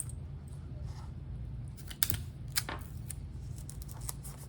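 Sticky tape being pulled and torn off, a few short crackling snaps about two seconds in and again shortly after, over a steady low hum.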